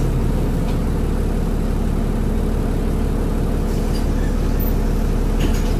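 Transbus Trident double-decker bus engine running at a steady speed, heard on board as a constant low drone, with a brief click near the end.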